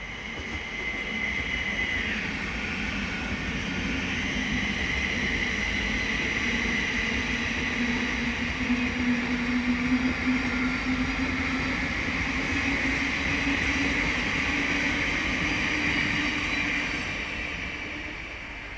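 Thameslink Class 700 electric multiple unit passing by: a steady whine over the rumble of wheels on rail, dying away near the end.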